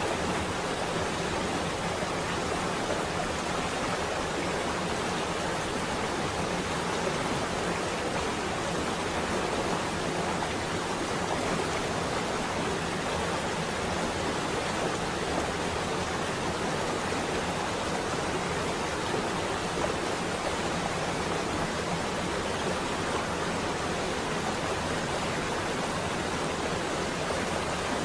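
Rain falling steadily on a window, an even, unbroken hiss with no thunder.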